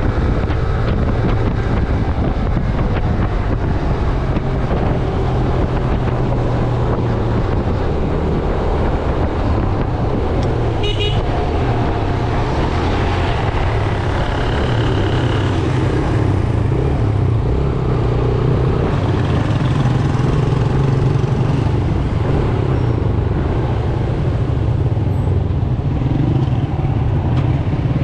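A Yamaha YBR 125G's single-cylinder four-stroke engine running steadily under way through dense city traffic. A vehicle horn honks briefly around the middle.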